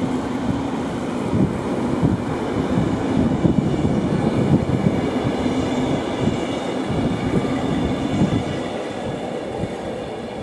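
Multi-car electric passenger train running past, a steady rumble of wheels on the rails with irregular knocks, easing off near the end as the last car goes by.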